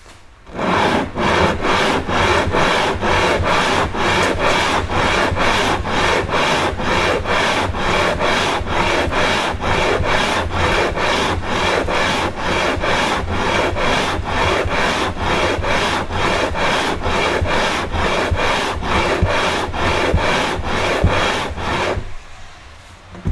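Aluminium cylinder head of a 1981 Honda CB650 being rubbed back and forth on WD-40-wetted sandpaper, a steady rhythm of rasping strokes about two to three a second that stops near the end. It is the head being lapped flat to resurface its gasket face.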